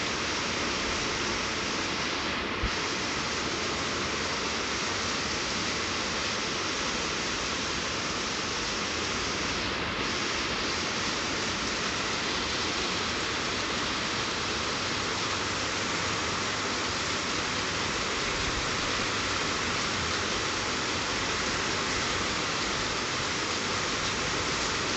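Steady rain, an even hiss, with a single short click about two and a half seconds in.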